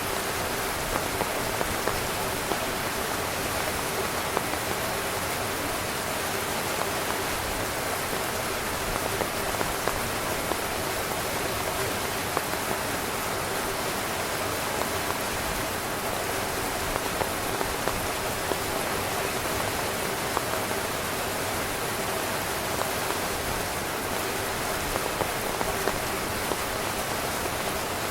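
Heavy, steady rain falling on a tent's fabric, with scattered sharper drop hits standing out from the even hiss.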